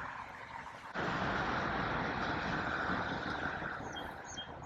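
Steady wash of noise from light rain falling and road traffic, stepping up abruptly about a second in and easing off later, with a few faint bird chirps near the end.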